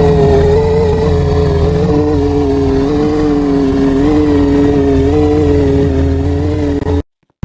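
A loud, engine-like mechanical drone, presented as a ceiling fan's noise: a low hum under a wavering whine, with a second, lower whine joining about two seconds in. It cuts off abruptly near the end.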